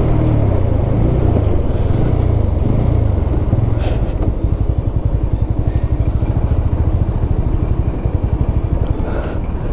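Bajaj Pulsar NS160's single-cylinder engine drops in pitch as the motorcycle slows, then idles at a standstill with an even pulse. It is running on the last of a measured litre of petrol and has not yet cut out.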